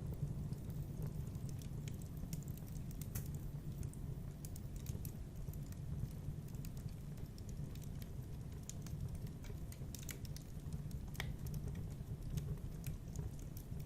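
Wood fire in a fireplace crackling: irregular small pops and ticks over a steady low rumble of the flames.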